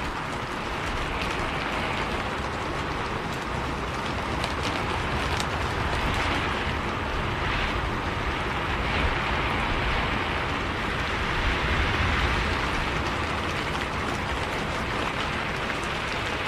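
Steady rain with the low running noise of a bus on the road, heard from inside the cabin, with faint scattered drop ticks.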